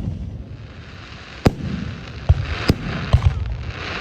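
Fireworks show: aerial shells bursting with sharp booms, about four or five in the second half, over a spreading crackle of crackling-star effects.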